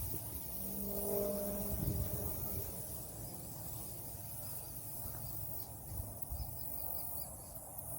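Wind buffeting the microphone with a gusty low rumble, over a steady high drone of insects. A brief low hum sounds about a second in.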